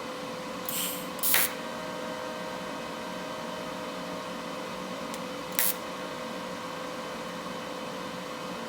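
Steady electrical hum and hiss of a WeldPro TIG 200 welder running during TIG welding on stainless steel. Three short hissing bursts cut through it, about a second in, a moment later, and again past the middle.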